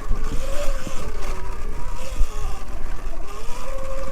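Segway X160 electric dirt bike's motor whining, the pitch rising and falling as the throttle changes, over a steady low rumble.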